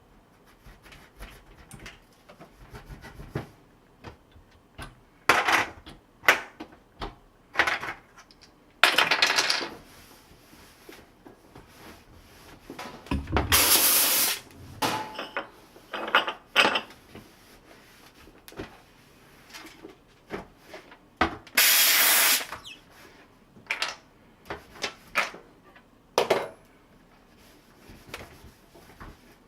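Kärcher SC1 steam cleaner letting out steam in repeated hissing bursts with quiet gaps between them, most brief and a few lasting about a second, as the trigger is pressed and released.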